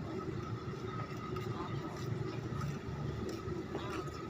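Steady low engine rumble with a thin, steady whine above it and a few faint clicks.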